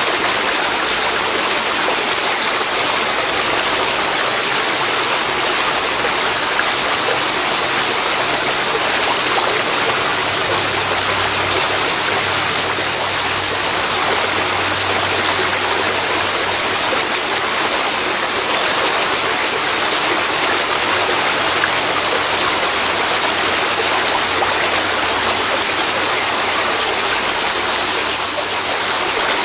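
Waterfall pouring into a river, a steady, loud rush of water with no breaks.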